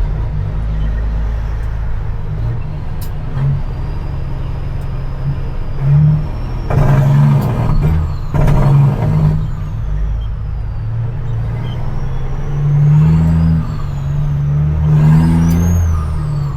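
Dump truck's CAT C-15 inline-six diesel running on the road, its pitch shifting up and down. Two loud hissing bursts come around the middle, and a high whistle rises and falls twice near the end.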